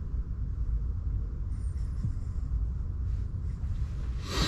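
A steady low rumble, with a short rustling burst near the end.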